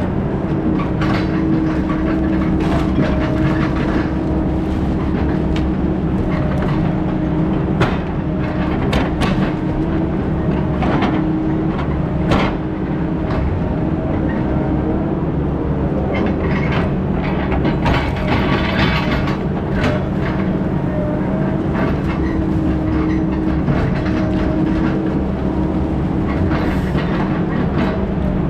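Heavy diesel logging equipment running steadily at a constant pitch, with scattered sharp metallic clanks and knocks over the engine.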